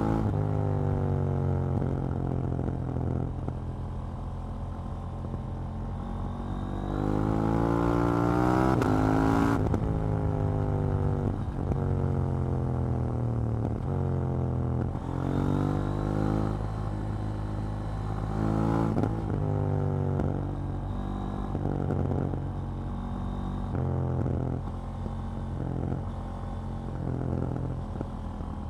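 KTM Duke 790's parallel-twin engine on the road, its pitch climbing under throttle and falling back again and again as the rider works through the gears; the biggest climb runs about two seconds, starting some seven seconds in, and ends in a sharp drop.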